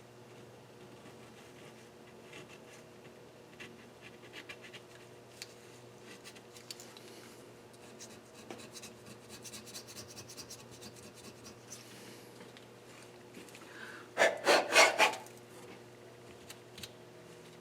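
Rubbing and scraping during cleaning work on an engine cylinder head: light scratchy strokes, then a louder burst of about four quick scrubbing strokes near the end.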